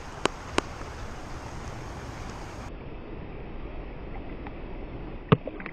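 Wind buffeting the microphone over a steady outdoor hiss, with two sharp clicks near the start and a louder single click about five seconds in.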